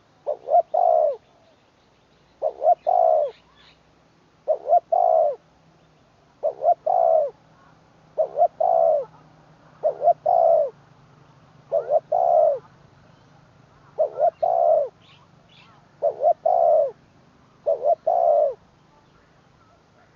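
Spotted dove cooing: a phrase of two short notes and a longer one, repeated about every two seconds, ten times in a row.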